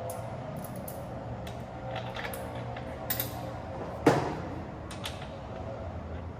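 Scattered light metallic clicks and taps from hand work on a motorcycle's rear axle and axle nut, with one sharper clank about four seconds in.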